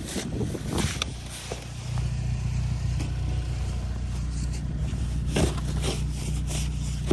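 A few short crunches or scrapes, then about two seconds in the tuned Volkswagen Passat R-Line's engine comes in and runs at a steady, even pitch as the car is tried on a snowy driveway.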